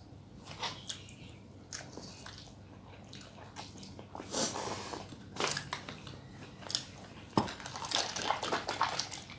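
Close-up eating sounds: irregular wet chewing and mouth smacks, with a sharp click about two-thirds of the way in and busier chewing near the end.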